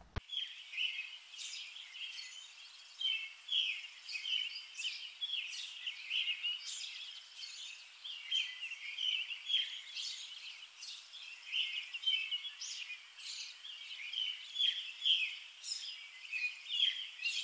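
Birds chirping: many short, quick, fairly high chirps, several overlapping one after another.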